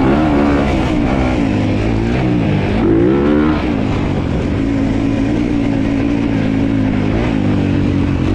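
Dirt bike engine running under throttle, its pitch rising and falling over the first few seconds with a climb about three seconds in, then holding steady.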